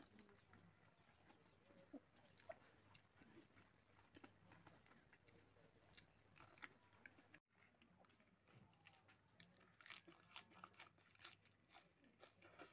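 Faint chewing and wet mouth smacks and clicks of someone eating pork hock curry with rice by hand, in scattered soft bites.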